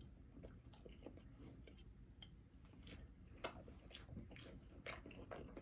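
Very quiet chewing with a few small soft clicks.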